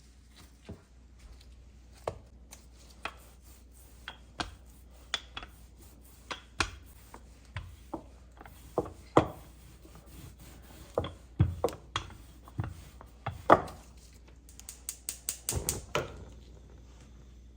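Knife chopping on a cutting board: single strokes at an uneven pace, then a quick run of about eight chops near the end.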